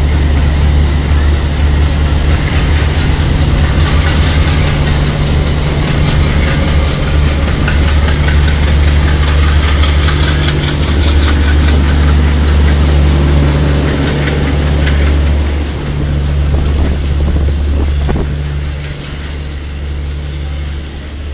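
Indian Railways diesel locomotive and train rolling past: a steady low diesel hum with wheels clattering over the rail joints. The hum carries on as the power van and coaches follow, with a faint high squeal about two-thirds through and the sound easing off near the end.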